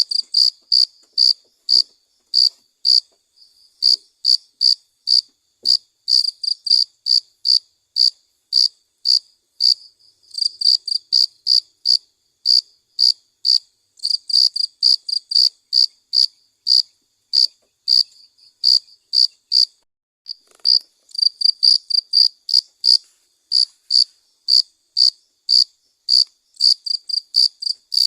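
Cricket chirping: short, high chirps repeated about two to three a second, sometimes in quicker runs, with a few brief pauses.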